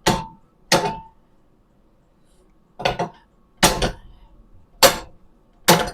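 Six sharp metal-on-metal strikes at uneven intervals, the first two ringing briefly: a hammer knocking at a stuck steel part of a minibike's front end to work it loose.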